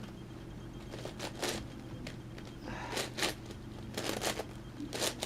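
Plastic pieces of an 11x11x11 Rubik's cube clicking and scraping as its layers are turned by hand, in short, irregular handling noises with quiet gaps between them.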